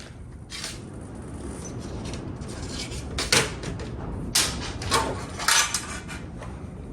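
Workshop handling noise: a string of about half a dozen sharp knocks and clunks as things are picked up and set down, most of them between three and six seconds in.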